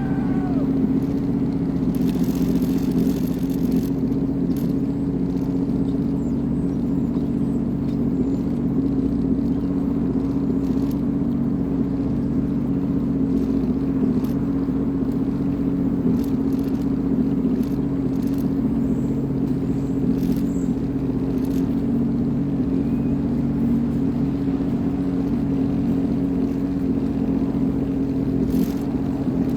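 Sea-Doo FishPro personal watercraft engine running at a steady speed, an even drone that holds without revving up or down.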